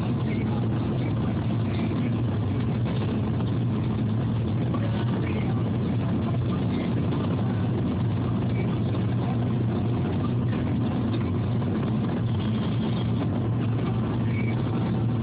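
Steady engine and road noise heard inside a moving car's cabin: a constant low hum over an even rush of tyre noise.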